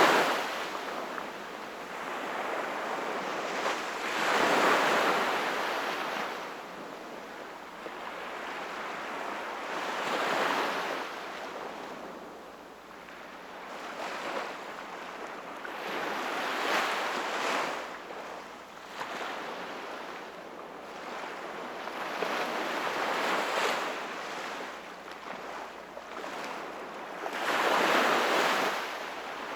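Ocean waves breaking and washing ashore, swelling and fading in surges about every five to six seconds, the biggest near the start, about four seconds in, and near the end.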